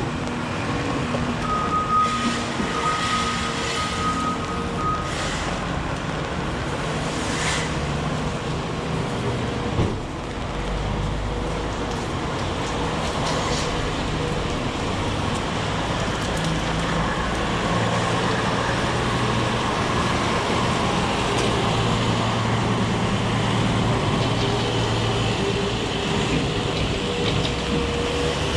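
Heavy rain hissing on a city street while motor traffic passes, engines humming and a low rumble of a vehicle going by about ten seconds in.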